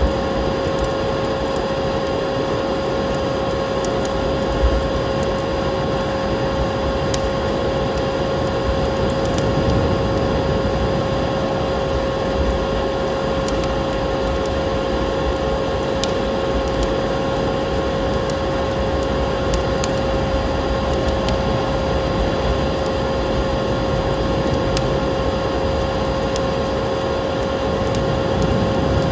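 Wood fire crackling in a fireplace, with sparse small pops and clicks over a steady rushing background and a constant hum-like tone.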